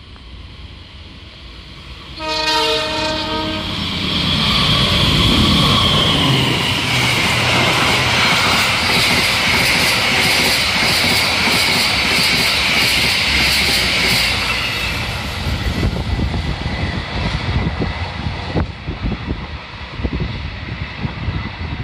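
Passing KA Taksaka express: the diesel locomotive's horn sounds once for about a second, then the train runs through at speed. Engine and wheel noise swell to a loud rush with a high steel-on-rail hiss, the engine note falling in pitch as the locomotive passes, then the wheels click over the rail joints as the coaches go by and the noise fades.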